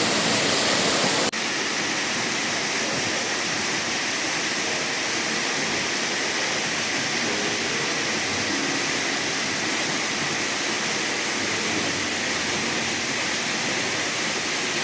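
Handibhanga waterfall, a 200-foot fall, pouring in a steady, even rush of water. The level steps down slightly at an abrupt cut about a second in.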